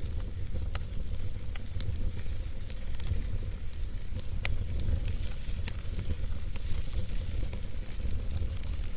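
Wood fire burning in a fireplace, with a steady low rumble and hiss and scattered sharp crackles and pops.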